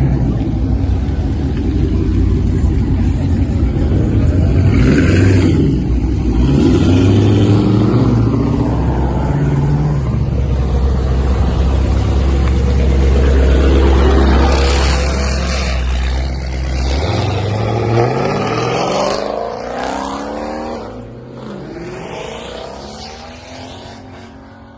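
A high-performance car engine runs with a loud, deep rumble, then accelerates hard with rising revs and several gear shifts, fading away into the distance over the last several seconds.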